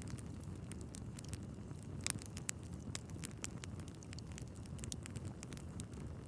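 Wood fire burning in a fireplace: irregular crackles and pops of the logs over a steady low rumble of the flames.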